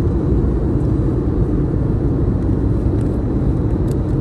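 Steady low rumble of engine and travel noise heard from inside a moving vehicle's cabin.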